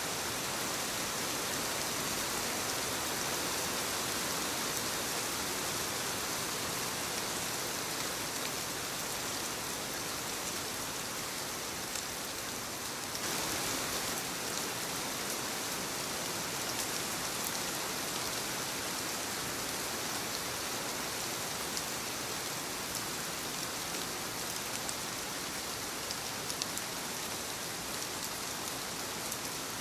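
Soft rain falling on leaves: a steady hiss of rainfall with fine, scattered drop ticks.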